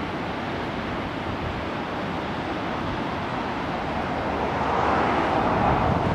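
Ocean surf washing ashore, with wind buffeting the microphone; the surf swells louder about four seconds in.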